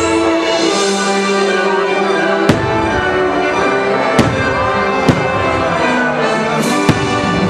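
Orchestral show music playing loudly, with fireworks bursting over it: four sharp bangs, about two and a half, four, five and seven seconds in.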